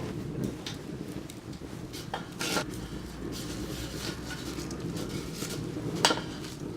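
Wood bonfire crackling over a low steady rumble, with a few sharp metallic clinks, the loudest about six seconds in.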